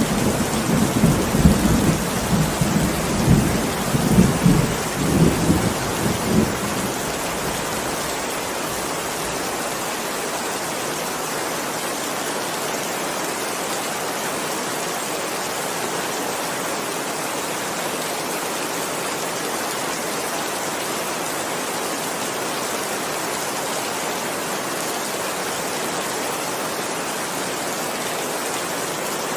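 Heavy rain falling steadily, with a rolling rumble of thunder through the first six or seven seconds that fades out into the rain.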